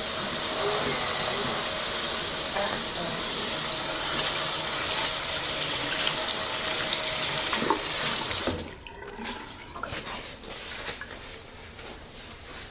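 Water running hard from a sink tap, a steady rush that cuts off suddenly about eight and a half seconds in, followed by faint handling sounds.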